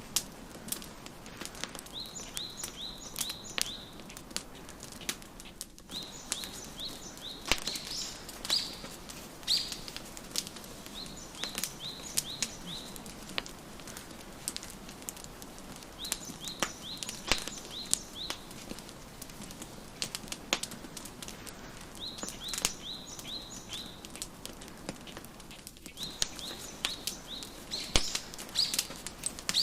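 Wood fire crackling with frequent sharp pops over a low steady hiss, mixed with songbirds chirping in short bursts of rapid notes that recur every few seconds.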